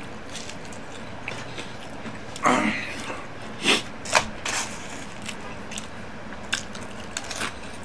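Close-up chewing and biting of fried batter, with a scattering of short crunches and wet mouth noises, the loudest about two and a half seconds in.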